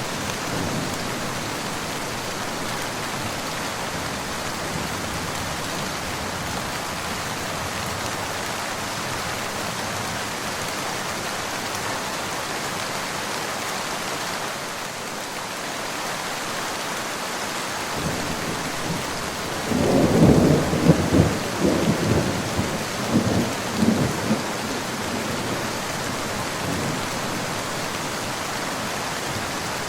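Steady heavy rain, with a rumble of thunder that builds about 18 seconds in, peaks in several low crackling rolls and then fades.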